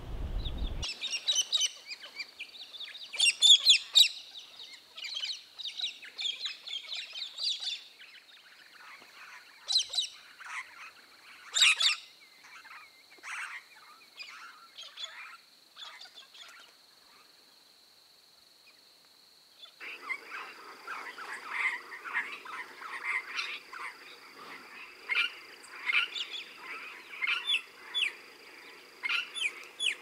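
Wild birds calling, many short chirps and calls, over a steady high thin drone. About twenty seconds in the background changes abruptly and a denser run of chattering calls follows.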